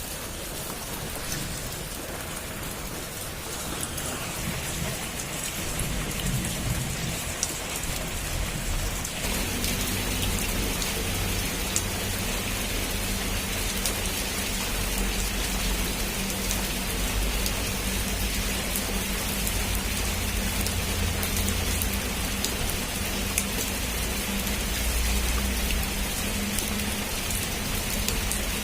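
Heavy rain falling on a roof: a steady hiss with scattered sharp drop ticks. A low rumble comes in about a third of the way through and carries on under the rain.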